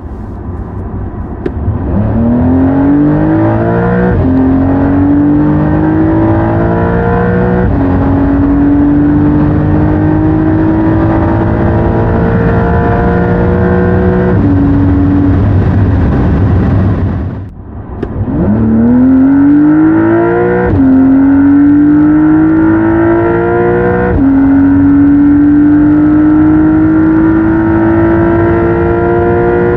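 Porsche 911 Carrera (992.2)'s 3.0-litre turbocharged flat-six accelerating hard twice in a row. Each time the engine note climbs steadily and drops sharply at each quick upshift of the 8-speed PDK. The sound dips briefly between the two pulls, about halfway through.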